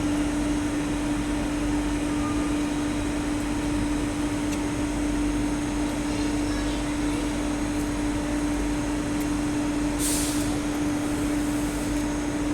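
Railway station ambience: a steady, unchanging electric hum over a bed of even noise, with a short burst of hiss about ten seconds in.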